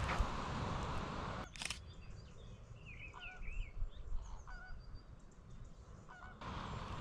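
Goose-like honking calls from large water birds, a few short calls between about three and six and a half seconds in. A single sharp camera shutter click comes about a second and a half in, after a stretch of walking noise.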